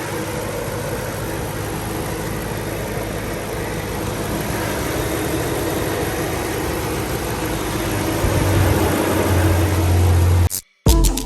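2010 BMW M3's 4.0-litre V8 running steadily, gradually getting a little louder, with a deep low drone in the last couple of seconds before it cuts off abruptly.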